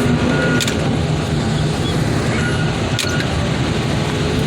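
Heavy diesel equipment running steadily at a car-crushing yard. Two sharp clicks or knocks cut through the engine sound, one just under a second in and one about three seconds in.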